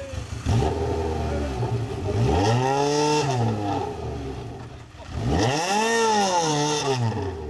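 Rally car engine at low revs, then revving up and back down twice in quick succession.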